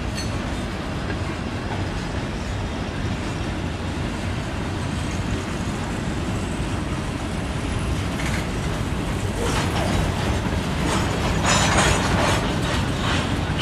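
Freight train cars rolling past with a steady rumble and clickety-clack of wheels over the rails, growing louder with metallic clatter in the last few seconds.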